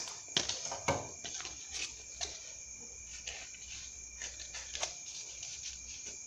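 Scissors snipping through paper and cardboard roll, a run of irregular sharp clicks, the strongest about half a second and a second in. A steady high-pitched tone runs underneath.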